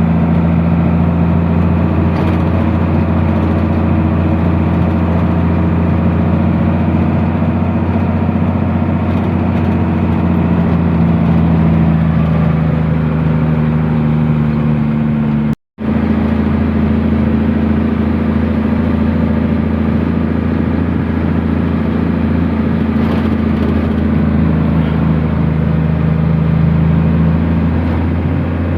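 Truck engine running steadily under way, its low drone shifting slowly in pitch as the engine speed changes. The sound cuts out for an instant about halfway through.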